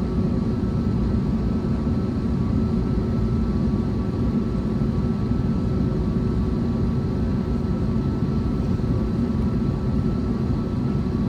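Cabin noise inside an Airbus A321neo with its Pratt & Whitney geared turbofan engines idling: a steady low rumble with a few faint steady hums over it.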